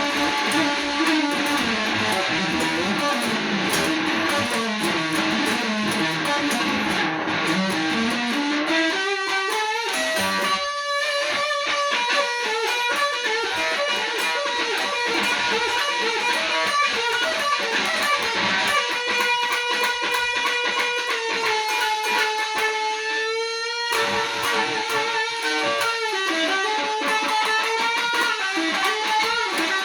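Electric guitar solo playing a blues, with long held notes, wide vibrato and pitch bends; the line slides down over the first several seconds, then climbs back up.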